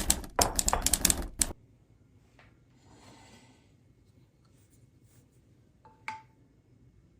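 Kitchen handling sounds: a quick run of sharp clicks and knocks for the first second and a half, then quiet, with a light clink of a dish that rings briefly about six seconds in.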